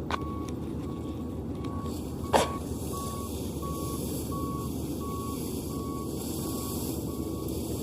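Maxxi NDR85 combine harvester running steadily, its warning beeper sounding about two to three times a second. A single sharp knock about two and a half seconds in is the loudest moment.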